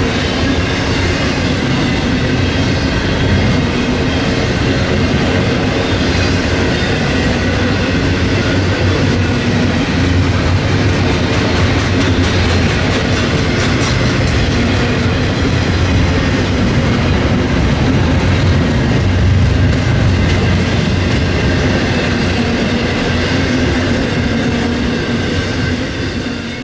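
Freight train rolling past, a steady loud rumble and rattle of its wheels and cars on the track, dropping away near the end.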